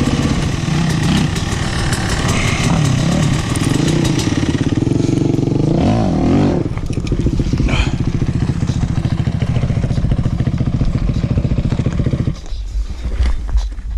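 Dirt bike engine under way, its pitch rising and falling with the throttle for the first several seconds. It then holds a steadier, lower note and drops away to a low rumble near the end.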